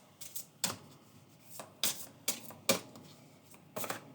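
A deck of large oracle cards being shuffled by hand: a string of irregular soft slaps and flicks as the cards fall against each other.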